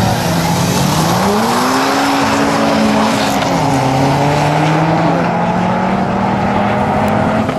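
Two drag-racing cars, a BMW 135i with its twin-turbo N54 straight-six among them, launching off the line about a second in and accelerating hard. Engine pitch climbs and then drops at gear changes, twice, before rising again.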